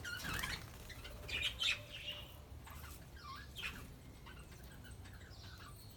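Budgerigars chirping: a string of short, scattered calls from several birds, some sweeping down in pitch, with the loudest bursts a little over a second in and near the end of the fourth second.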